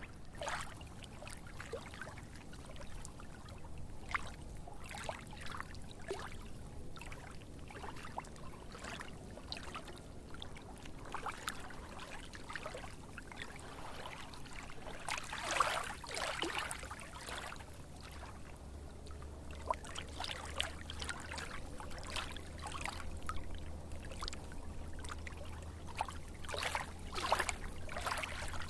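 Water trickling and splashing in irregular small spurts, with a low steady hum underneath from about halfway through.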